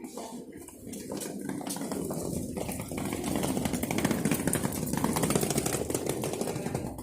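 A motor engine running, the sound getting louder over the first few seconds and staying strong to near the end.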